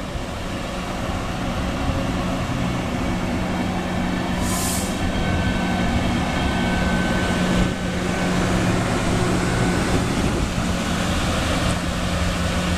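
VR electric multiple-unit commuter train running past along the platform: a steady rumble of wheels on rail with a constant motor hum. A short hiss comes about four and a half seconds in.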